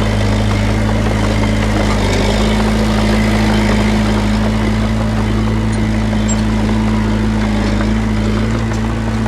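Diesel engine of a heavy earthmoving machine running at a steady speed, a constant low drone.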